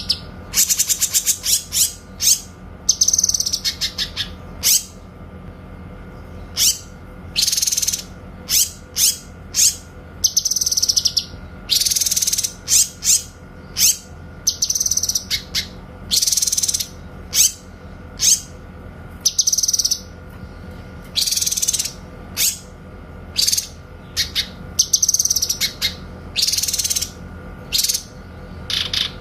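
Cucak kinoy calling over and over in loud, sharp, high bursts, some of them rapid rattling trills: the clear 'tembakan' (shot) calls used as masteran for training songbirds.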